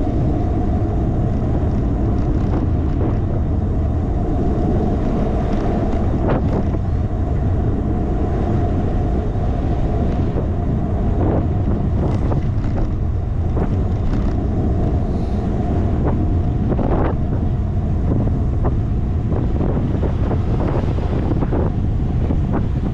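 Wind buffeting a handlebar-mounted GoPro on a moving bicycle: a loud, steady rumble, with scattered clicks and knocks through it.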